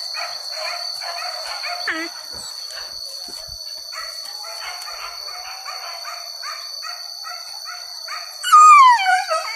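Hunting dogs barking in quick succession, about three or four barks a second, over a steady high drone of insects. Near the end one dog gives a loud cry that falls in pitch.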